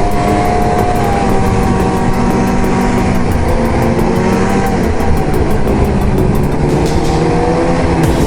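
Arctic Cat ZR 8000's 800 C-TEC two-stroke twin running steadily under way; its note drops a little about five seconds in, then slowly climbs again near the end.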